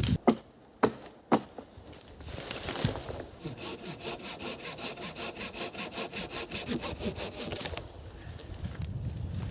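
A few sharp wooden knocks, then a hand saw cutting through wood in quick, even strokes of about four a second, easing off near the end.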